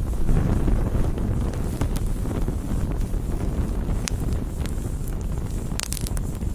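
Wood fire burning: a steady low rumble of flames with scattered sharp crackles and pops, a quick cluster of pops near the end.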